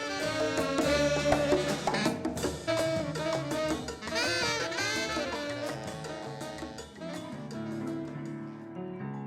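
Jazz music played by a band, with many pitched instruments and drums.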